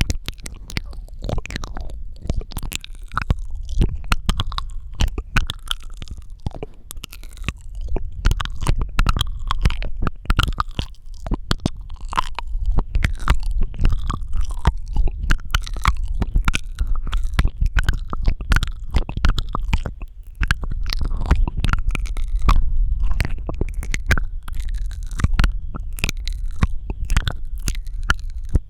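ASMR mouth sounds close to the microphone: a steady stream of wet clicks, smacks and squishy tongue and lip noises, with a low rumble underneath.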